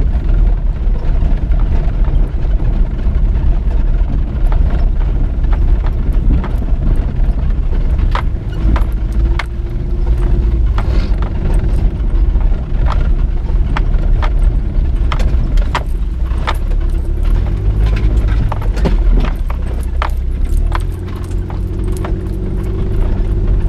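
Car driving: steady engine and road rumble, the engine note shifting now and then, with irregular rattles and clicks from about eight seconds in.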